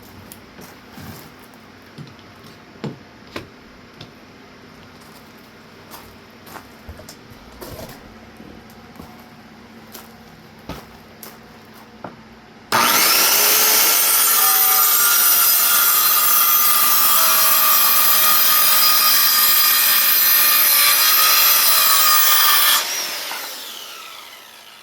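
Electric saw cutting a wooden board: a few knocks and clatter of handling first, then about halfway in the saw starts suddenly and runs loud and steady for about ten seconds through the cut, then winds down near the end.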